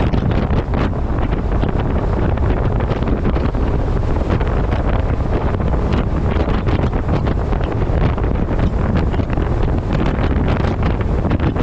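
Wind buffeting the microphone of a camera strapped to the front of a moving truck: a loud, steady deep rush broken by constant quick gusts.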